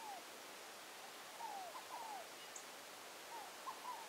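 A bird calling faintly: short whistled notes that fall in pitch, one near the start, then a group of three about a second and a half in and another group near the end, over a faint steady hiss.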